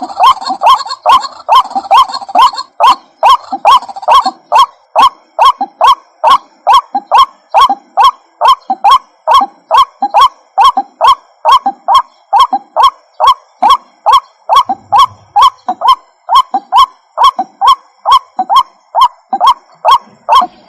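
White-breasted waterhen calling: a long, unbroken run of loud, short, repeated calls, about two and a half a second, in a steady rhythm.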